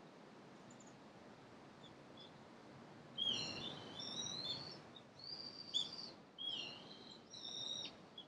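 A bird calling: a few faint chirps, then about three seconds in a run of four loud, shrill calls that waver in pitch.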